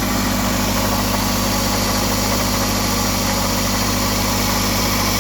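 A 2005 Toyota Camry's 2.4-litre four-cylinder engine idling steadily with the noise the owner is chasing, which he takes for a bad tensioner.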